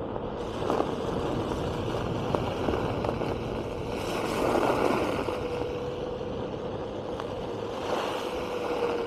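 Onewheel GT's hub motor whining at a steady pitch that dips and rises slightly with speed, over a rushing noise that swells about halfway through and again near the end, with a few sharp ticks.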